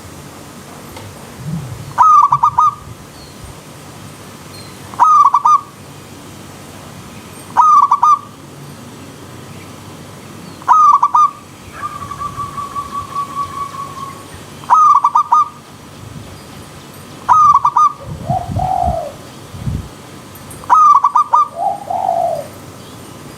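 Zebra dove (perkutut) cooing its short, many-noted 'kung' call over and over, about every three seconds, over a steady hiss of flowing stream water. About halfway through, a second bird gives a quick, even trill, and another lower call comes twice near the end.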